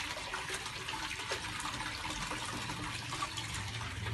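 Small pot fountain driven by an aquarium water pump, its water splashing and trickling steadily into a pebble-filled pot.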